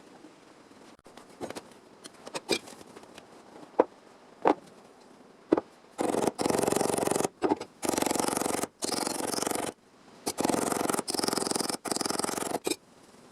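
A few sharp clicks and taps, then four runs of harsh, rapid scraping, each one to two and a half seconds long: work on sheet metal during a bodywork repair.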